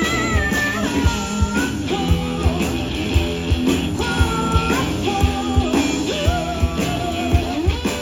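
Live blues-rock band playing an instrumental break: a lead guitar holds and bends notes over bass and a steady drum beat.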